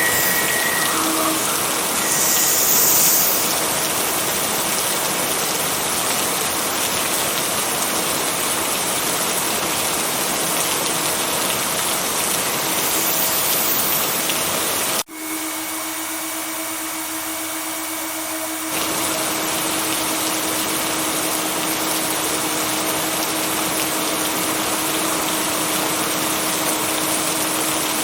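Steady heavy rain, a dense even hiss, with a faint steady hum underneath. About halfway it cuts off for an instant, comes back thinner for a few seconds, then returns to full.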